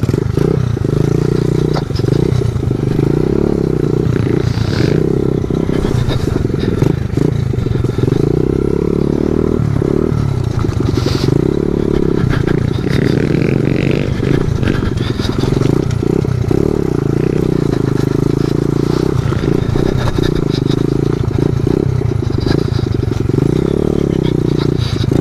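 Small pit bike engine running steadily while being ridden, with brief throttle dips here and there.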